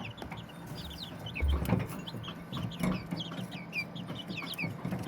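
A group of young chicks peeping, with many quick, high, falling peeps overlapping one another. There is a soft low bump about a second and a half in.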